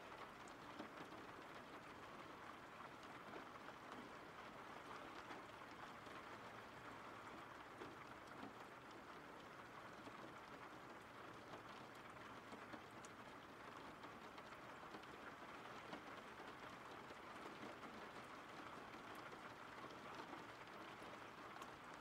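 Faint, steady rain: an even hiss of falling rain with scattered light drop ticks.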